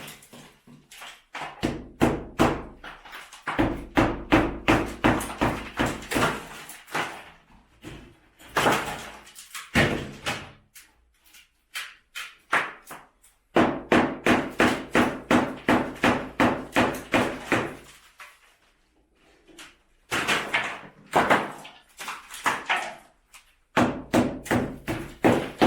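Hammer blows on a brick wall being demolished: runs of sharp, regular strikes, several a second, in bursts of a few seconds with short pauses between.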